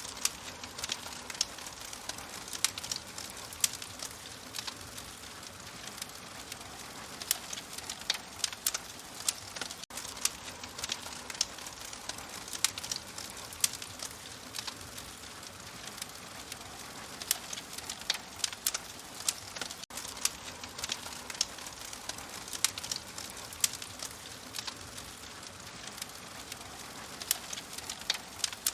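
Open fire crackling: a steady soft hiss with frequent sharp pops and snaps.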